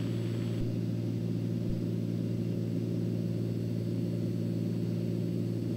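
Steady drone of a turbocharged Cessna 206's six-cylinder piston engine and propeller in cruise flight, heard from inside the cockpit as an even low hum.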